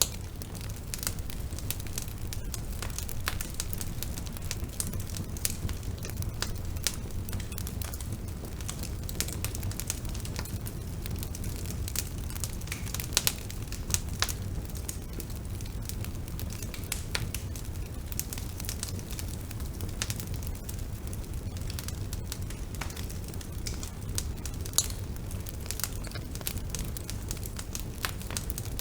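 Bonfire burning: a steady low rumble of flames under constant irregular crackling and sharp pops from the burning wood, with a few louder pops scattered through.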